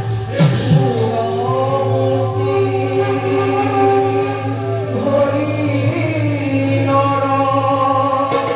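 Bhaona devotional singing: voices hold long notes and slide between pitches, over a steady low drone.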